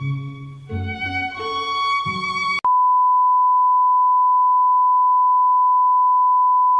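String-led background music with violin, cut off abruptly about two and a half seconds in by a loud, steady, single-pitched electronic beep that holds unchanged.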